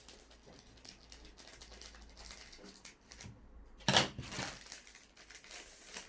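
Packaging and paper rustling and crinkling as instruction booklets are handled and taken out, with one sudden loud rustle about four seconds in.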